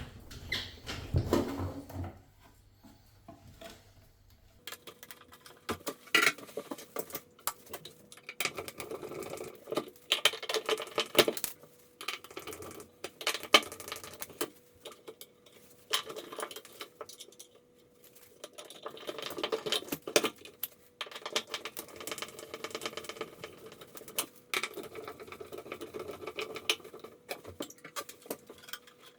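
Irregular clicking and clattering of small hard parts, in bursts of a few seconds each, over a faint steady hum that starts about five seconds in.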